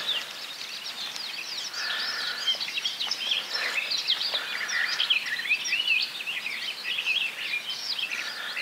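Songbirds singing and chirping: many short, rapidly rising and falling calls overlapping one another.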